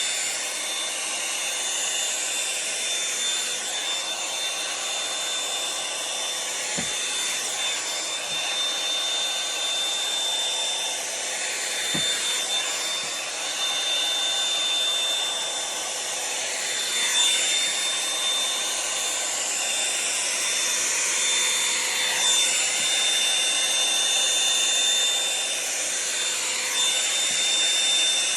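Revlon One-Step hot-air brush dryer running, a steady blowing hiss with a high whine, its tone sweeping and shifting every few seconds.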